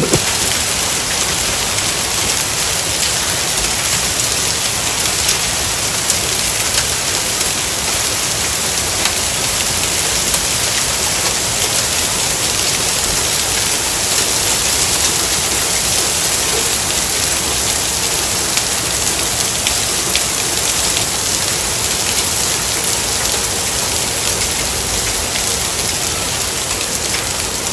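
Heavy rain mixed with small hail pelting a concrete path: a steady, dense hiss with fine ticks of impacts.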